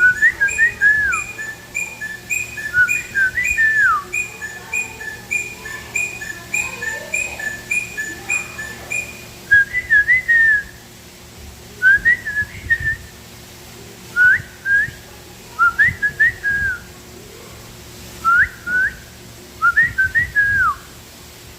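Birds calling: a steady run of short, high chirps about twice a second, then, about halfway through, a series of whistled notes that slide up and down in short phrases about every two seconds.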